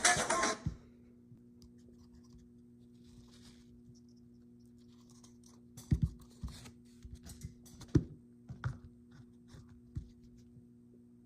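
Music cuts off within the first second, then faint scratching and rustling handling noises with a few sharp knocks, the loudest about six and eight seconds in.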